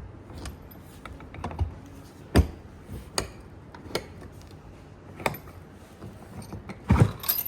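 Irregular clicks and light knocks of objects being handled, with a louder knock about two and a half seconds in and a cluster of knocks near the end.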